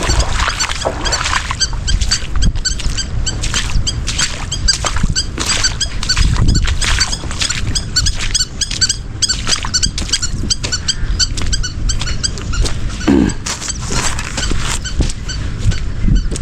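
Birds chirping: many short, high calls repeating and overlapping without pause, with a low rumble underneath.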